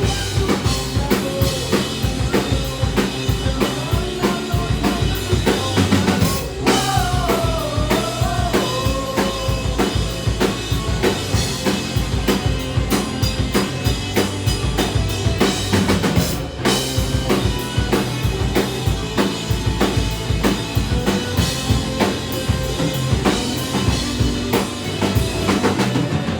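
Punk rock band playing live, carried by a fast, steady drum-kit beat of bass and snare drum under the full band. About seven seconds in, a pitched line slides down and back up over the beat.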